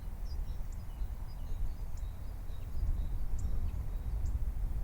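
Steady low outdoor rumble with scattered short, faint bird chirps.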